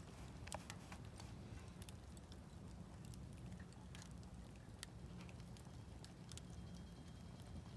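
Campfire of burning wood crackling: scattered sharp snaps and pops, a few each second, over a low steady rumble.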